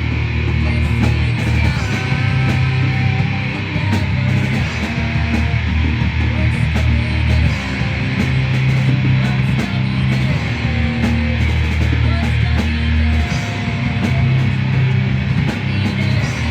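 Rock band playing a heavy song, guitar, bass and drums together in a raw, unmixed recording. Held low bass notes change every second or two under a steady beat of drum hits.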